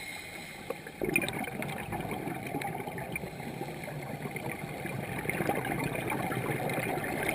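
Water gurgling and crackling, changing abruptly about a second in from a quieter sound with steady high tones to a denser, crackly water noise.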